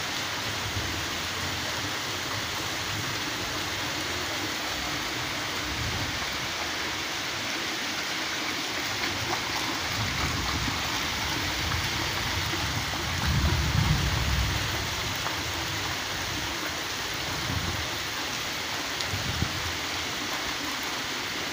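Steady rain falling on wet paving and a lawn, with a few low rumbles under it, the loudest about 13 seconds in.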